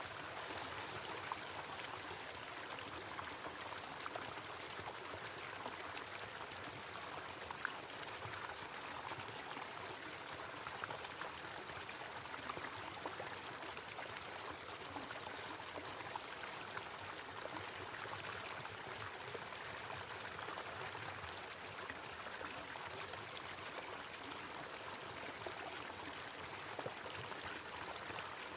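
A small waterfall splashing and trickling steadily.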